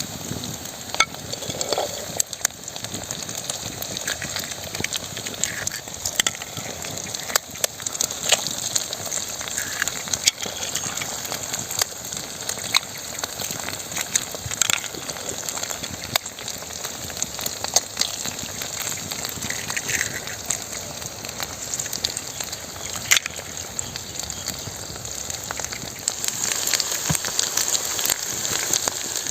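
Food frying in a hot pan: a steady sizzle with frequent sharp pops and crackles.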